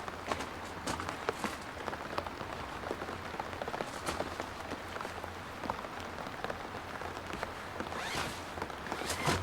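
Steady rain with irregular drops ticking on a surface, and a louder noisy burst just before the end.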